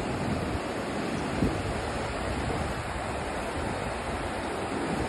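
Steady rushing of a large waterfall, the Rhine Falls, heard as an even wash of water noise, with a brief low bump about a second and a half in.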